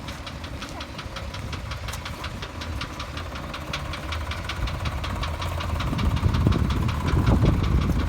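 1986 Chevrolet C30's 454 big-block V8 with dual exhaust idling with a rhythmic knock, several a second; where the knock comes from is unknown. The engine gets louder about six seconds in.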